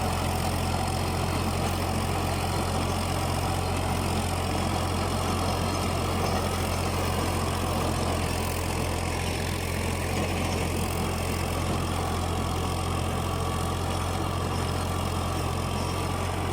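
Fiat 480 tractor's diesel engine running at a steady, even drone while it drives a rotavator cutting through grass.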